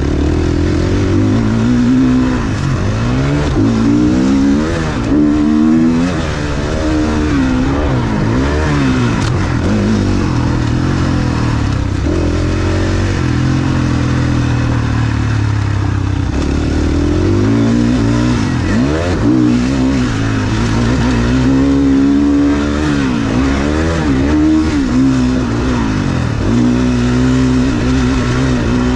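Motocross dirt bike engine revving hard and backing off again and again, its pitch climbing and dropping every second or two as the rider accelerates, shifts and closes the throttle for corners.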